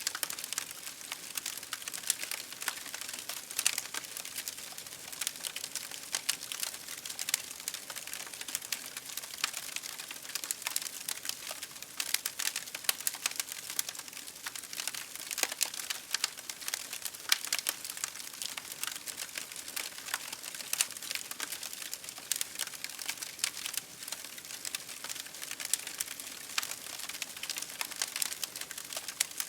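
Campfire crackling: a dense, irregular stream of small sharp pops and snaps over a soft hiss, with occasional louder pops.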